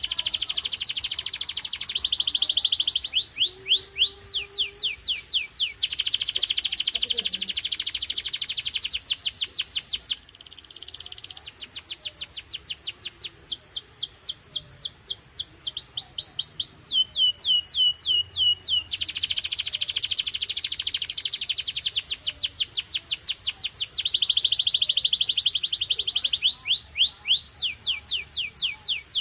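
Domestic canary singing: long trills of rapid, repeated, high downward-sweeping notes in dense rolls, with a short lull about ten seconds in.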